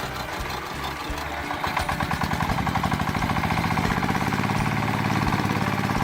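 A small engine or motor running with a fast, even pulsing that picks up about a second and a half in and then holds steady.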